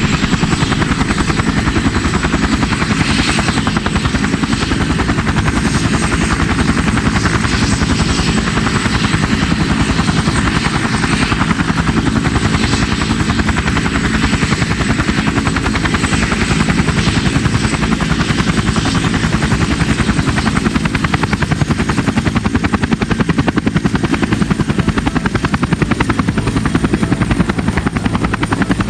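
AH-64E Apache attack helicopter running, its twin turboshaft engines and rotors making a steady, rapid blade chop with a thin high turbine whine.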